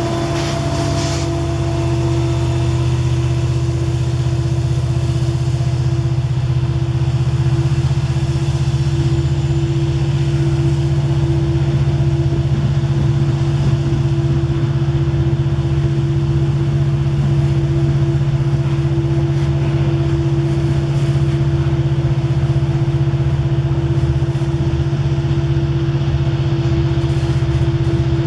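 An engine running steadily at a constant speed, a loud even low drone with a held hum. A fading hiss in the first second.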